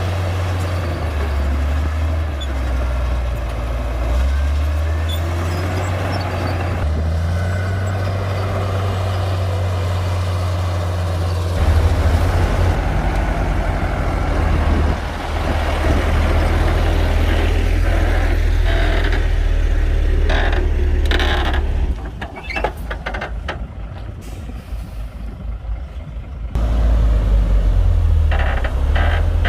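Komatsu D58P bulldozer's diesel engine running hard as it works, its pitch and level shifting. About 22 seconds in it drops back for a few seconds with a run of knocks, then comes up loud again near the end.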